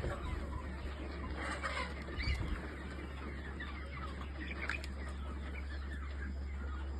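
A flock of Kadaknath chickens clucking and calling in scattered short notes, over a steady low hum, with a brief low thump about two seconds in.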